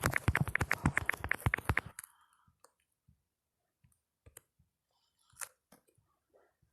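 Phone's on-screen keyboard click sounds from fast typing, about ten clicks a second, stopping about two seconds in, then only scattered faint single taps.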